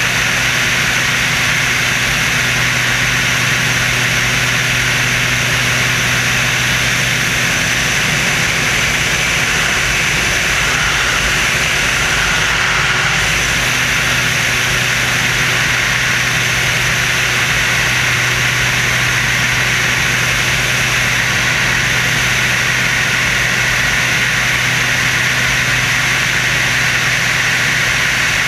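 Screamin' Sasquatch jet-assisted biplane's engines running at a steady, loud drone, with a low hum under a constant rush of air noise.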